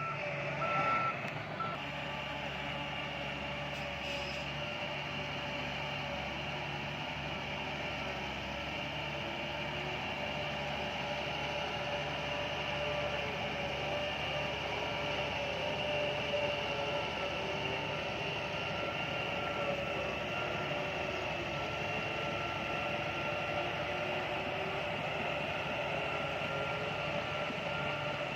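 Diesel engine of a heavy earthmoving machine running steadily under load, with a reversing alarm beeping at a steady pace in the first couple of seconds and again through the second half.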